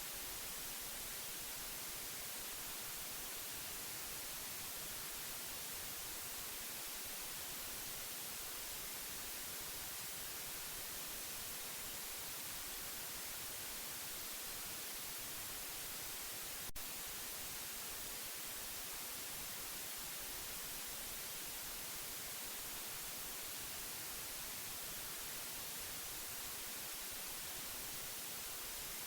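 Steady white noise: an even, unbroken hiss, strongest in the highs. A single small click a little past halfway.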